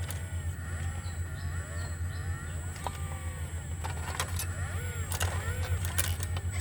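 Sumitomo SH120A3 excavator working: its diesel engine runs steadily under a string of short rising-and-falling hydraulic whines, with several sharp knocks in the second half.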